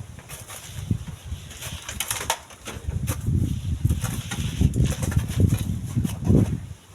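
Strong wind buffeting the microphone in gusts, strongest in the second half and easing off near the end.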